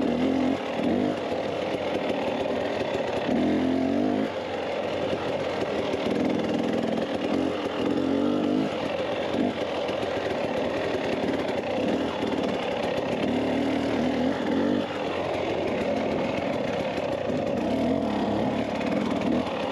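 Dirt bike engine running while riding, its revs rising and falling with the throttle.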